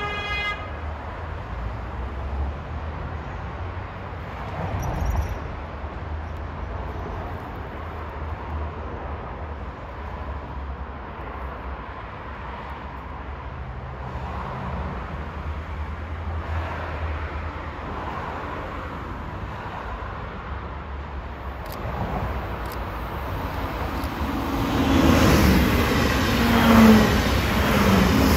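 Railway noise: a steady low rumble, then a train approaching that grows much louder over the last few seconds, with the rush and ringing tones of wheels on the rails.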